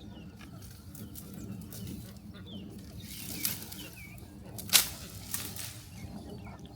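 Poultry calling faintly in short chirps over a steady low hum, with one sharp knock about three-quarters of the way through.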